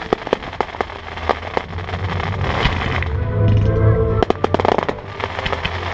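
Fireworks display: shells bursting and crackling in many sharp, irregular bangs, thickest about four seconds in, over music with a heavy bass.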